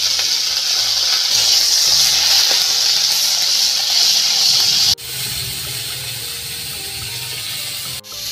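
Halved hog plums sizzling as they fry in a kadai, a steady hiss. It drops abruptly to a quieter sizzle about five seconds in and cuts out briefly near the end.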